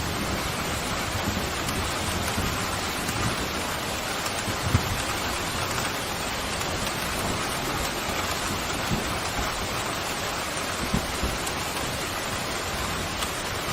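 Steady heavy rain, an even hiss, with a couple of brief louder taps about five seconds in and again near eleven seconds.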